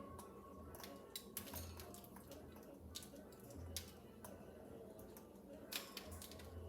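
Faint, irregular clicks and taps scattered through, over a low steady hum.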